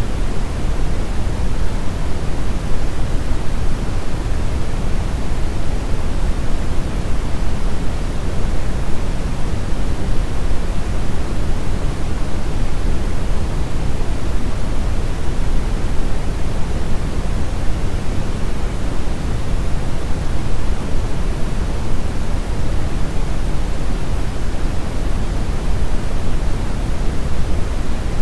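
Steady brown noise: an even, unbroken rumbling hiss weighted heavily toward the low end, with no changes or events.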